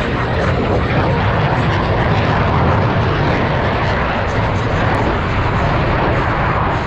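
Loud, steady jet engine noise from F/A-18 fighter jets in flight.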